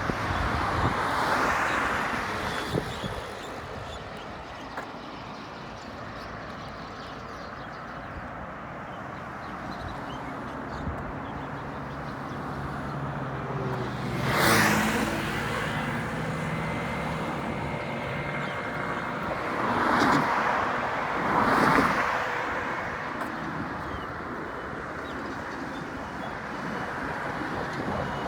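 Road traffic: a steady roadway hum with several vehicles passing close by, one about halfway through and two more in quick succession around two-thirds through.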